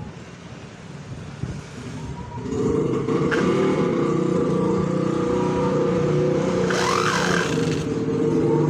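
The small DC motor of a homemade mini tractor switching on about two and a half seconds in and running steadily, with a brief rise and fall in pitch near the end.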